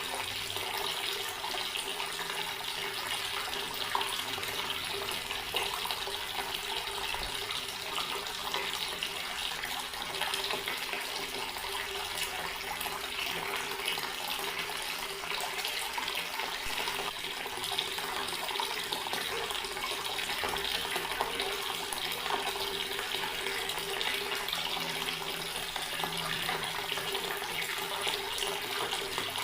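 Water running steadily from a tap, splashing into a sink or basin.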